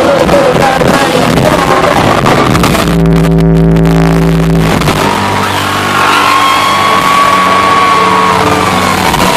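Live country band playing loud and distorted, heard from within the audience: full music, then a held low chord about three seconds in, and a long high sustained note with slight bends later on, as the song winds to its end.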